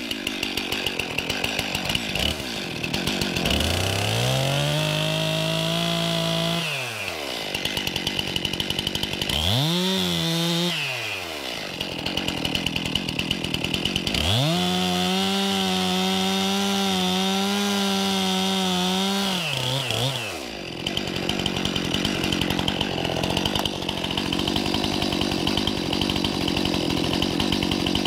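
Chainsaw idling with a rapid tick, revved to full throttle three times. The last and longest is held for about six seconds before it drops back to idle.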